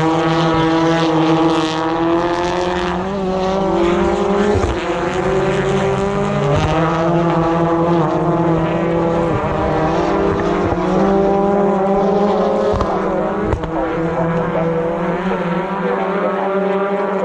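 British Touring Car Championship race cars going by at racing speed: their engines climb in pitch and drop sharply a few times as they change gear, with a few short sharp cracks.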